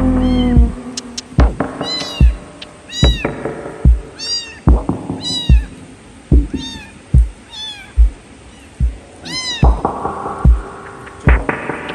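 Kitten meowing over and over: short, high cries that rise and fall in pitch, about every second or two. Background music with a steady bass beat runs under them.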